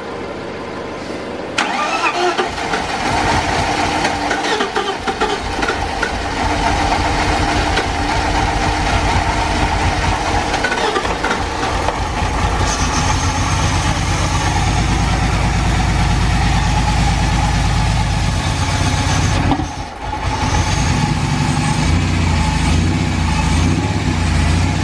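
Freshly swapped replacement engine in a BMW E46 330i being cranked, catching about a second and a half in, and then running steadily, with one brief stumble about 20 seconds in. This is its first start after the engine swap.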